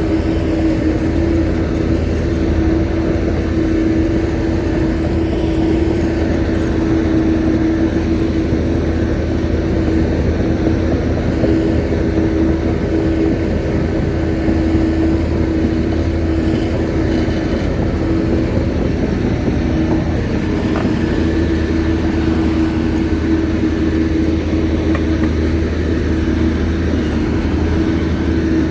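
Shantui bulldozer's diesel engine running steadily, with a constant whine over a low rumble.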